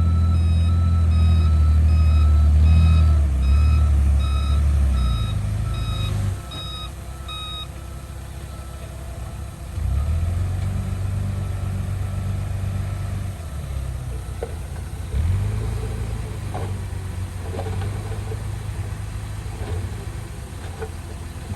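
Reversing alarm on a heavy machine beeping steadily, about two beeps a second, for the first seven seconds over a loud diesel engine. The engine then falls away and comes back in spells of running, with a few light knocks near the end.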